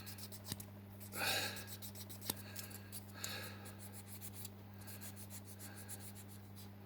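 Faint scratchy rubbing strokes of a small plastic model-car window being polished with metal polish and a little water, with a couple of louder rasping strokes, over a steady low electrical hum.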